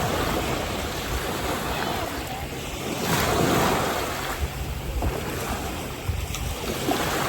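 Waves washing ashore in a steady hiss that swells twice, once at the start and again about three seconds in, with wind buffeting the microphone.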